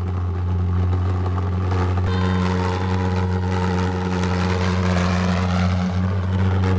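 Pulse jet engine running with a steady, loud low drone and a rushing noise above it.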